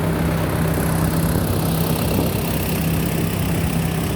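Rice combine harvester's diesel engine running steadily at a constant speed, a low even drone.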